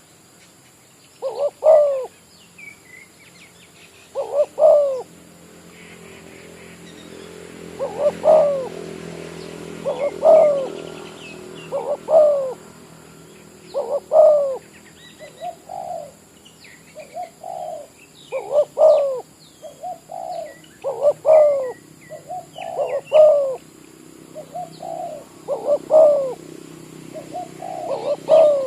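Spotted dove (tekukur) cooing over and over, a call roughly every two seconds, coming faster with shorter notes in between in the second half. Small birds chirp faintly in the background.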